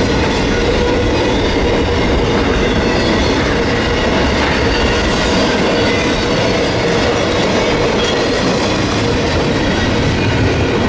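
Freight train cars rolling past at a steady pace, a continuous rumble of wheels on rail with thin, steady squealing tones from the wheels over it.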